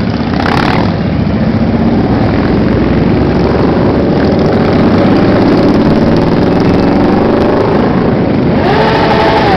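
Motorcycle engines of a large group of bikes riding past, running loud and steady with engine pitches rising and falling as riders work the throttle. A short burst of noise about half a second in, and a brief higher tone near the end.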